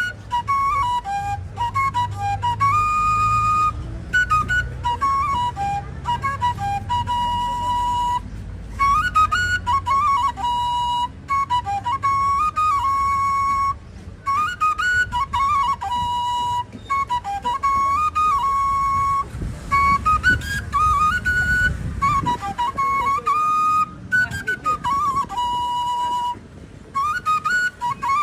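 A solo flute playing an ornamented melody, each phrase broken by short pauses, over a faint low rumble.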